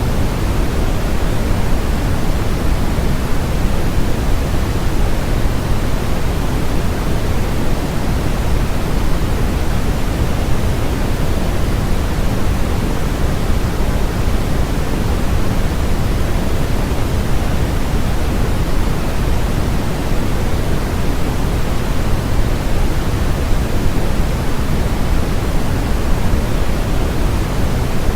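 Steady generated noise with no variation: an even rushing hiss, weighted toward the low end and softer in the highs.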